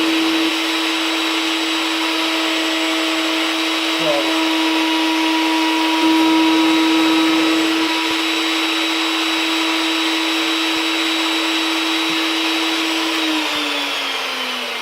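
Table router with a 1/2-inch spiral upcut bit running at full speed with a steady whine while the pin router trims a wooden guitar neck against its template. Near the end the router is switched off and the whine drops in pitch as it spins down.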